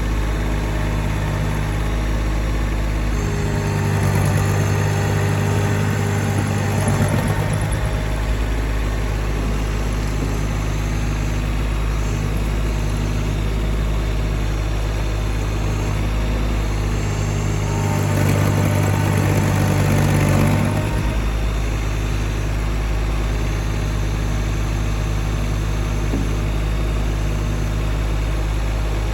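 Engine running steadily, picking up revs twice for a few seconds: about three seconds in, and again about two-thirds of the way through.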